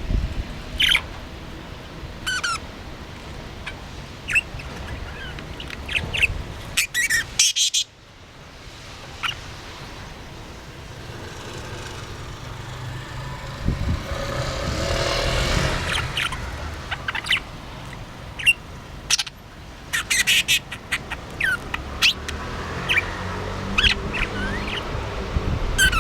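Budgerigar chirping in short, scattered calls, with a few clusters of sharp clicks.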